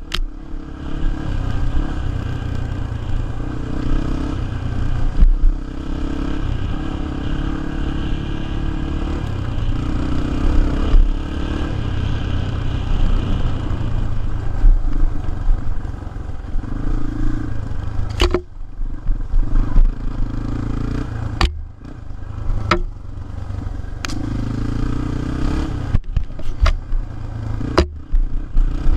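Small single-cylinder four-stroke dirt bike engine running and revving, its pitch rising and falling. Clattering throughout, and several sharp knocks in the second half.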